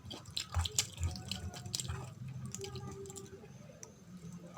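Close-miked wet chewing and mouth clicks from someone eating, busiest in the first two seconds and sparser after.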